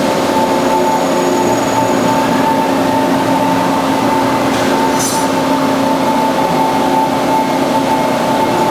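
Band saw running steadily, a continuous machine hum with several held tones.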